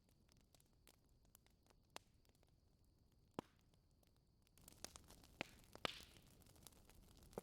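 Wood fire crackling faintly, with scattered sharp pops. About four and a half seconds in, a soft hiss comes up and the pops come more often, the loudest about six seconds in.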